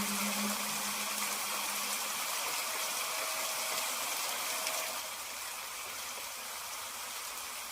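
Steady rain hiss, an even wash of falling rain with no distinct drops standing out, easing slightly about five seconds in.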